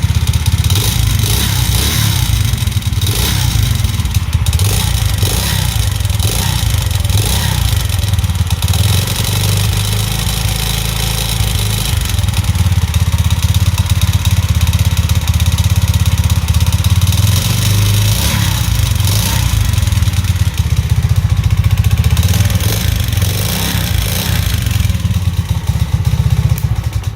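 Alpha moped's 110 cc four-stroke single-cylinder engine running, its speed changing a few times, with a strong metallic rattle from the engine. The owner puts the knock down to the newly fitted piston and rings.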